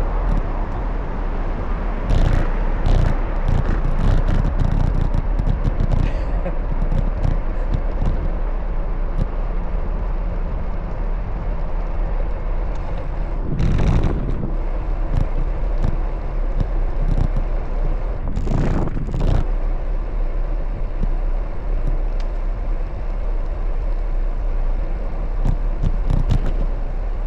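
Street and traffic noise heard from a moving bicycle: a steady rumble with scattered short knocks, and two louder passing swells about 14 and 19 seconds in.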